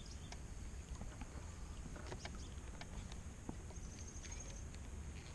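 Quiet outdoor background: a low rumble with scattered small clicks and taps, over a faint steady high-pitched hum.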